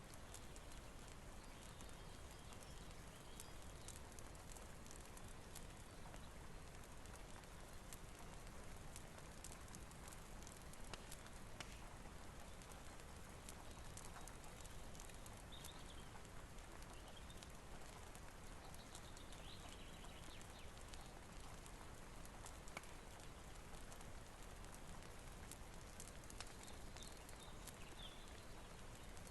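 Faint rain-and-fireplace ambience: a soft, steady hiss of rain with scattered small ticks and crackles throughout. A few faint high chirps come in about halfway through and again near the end.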